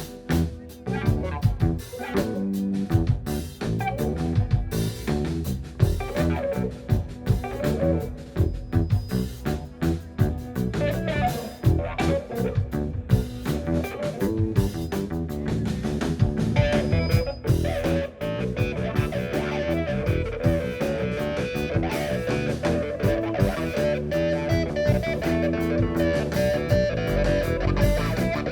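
Live rock band playing an instrumental passage: electric guitar notes over bass and a steady drum-kit beat.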